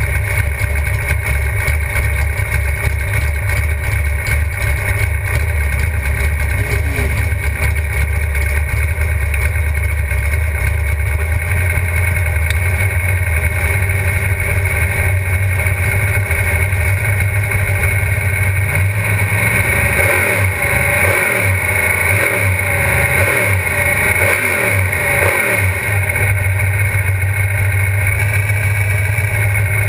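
GTO drag car's engine idling with a choppy, uneven beat, heard from inside the cockpit. In the second half its pitch swells up and down several times.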